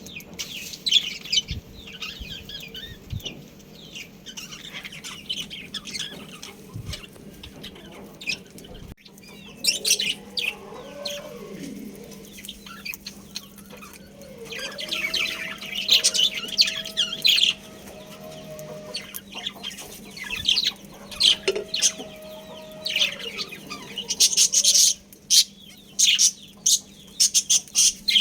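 Budgies chirping in quick, high, chattering bursts throughout. A chicken gives three longer, lower drawn-out calls over them, each rising, holding and falling.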